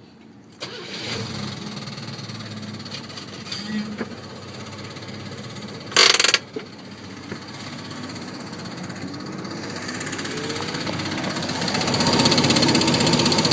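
1986 Chevy S10's 2.8 V6 starting up and running with a rapid, light rattling knock, like a card in bicycle spokes. The owner finds it too light for a rod knock and doubts it is his known header leak. A brief loud noise comes about six seconds in, and the engine gets louder toward the end.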